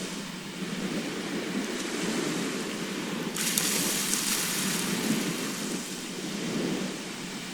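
Sea surf washing onto a shore, a steady rush rising and falling in slow swells. About halfway through a sudden brighter hiss of water comes in for a second or so and then eases off.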